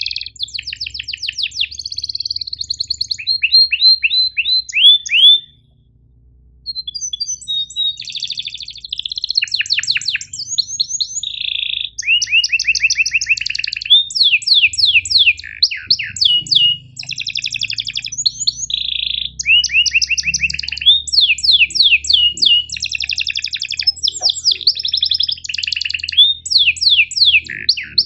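Domestic canary singing a long song of sharp chirps and rolling trills: fast runs of repeated downward-sweeping notes, with a brief pause about six seconds in.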